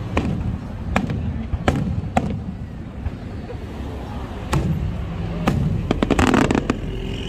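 Aerial fireworks shells bursting overhead: six separate sharp bangs spaced about a second apart, then a quick run of rapid crackling reports about six seconds in, over a steady low rumble.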